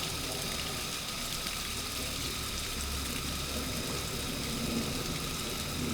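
Steady rushing of running water in a garden stream, with a low rumble underneath.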